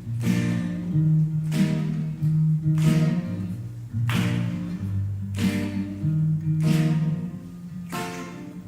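Guitar strummed in a steady rhythm, the chords changing every second or so, with no singing.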